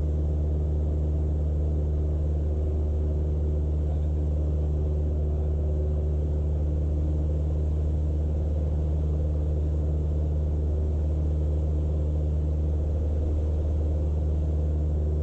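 Cessna 172's single piston engine and propeller droning steadily, heard inside the small cockpit, with a strong low hum and no change in pitch.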